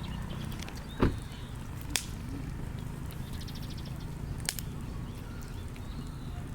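Wood campfire burning with a steady low rush of flame. Small crackles run throughout, and three sharp pops come about a second in, at two seconds and at four and a half seconds; the first is the loudest.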